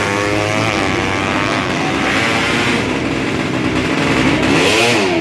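200cc-class drag-racing underbone motorcycle engine revving hard, its pitch climbing and dropping, with a quick rev up and back down near the end.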